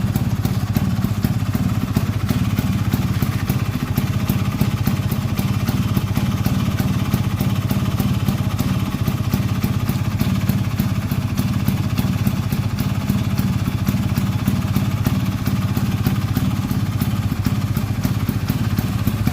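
1981 Vespa's single-cylinder two-stroke engine running through a Polini Big Box exhaust. It holds a steady speed with an even beat of exhaust pulses and no revving.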